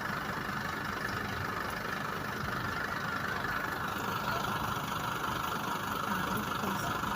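A bus engine runs steadily, a continuous even drone with no change in pitch.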